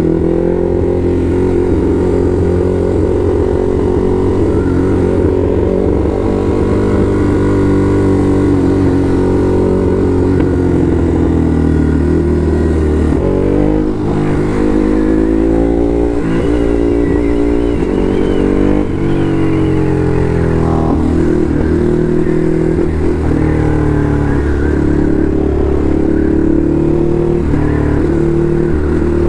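Ducati Hypermotard SP's L-twin engine running as the motorcycle is ridden, holding steady revs at first, then dropping and rising in pitch several times around the middle before settling again.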